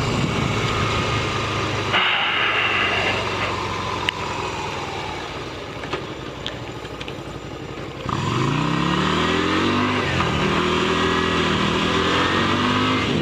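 Motorcycle engine running under way. It eases off and quietens in the middle, then about eight seconds in it accelerates with the pitch rising, and shifts up a gear near ten seconds.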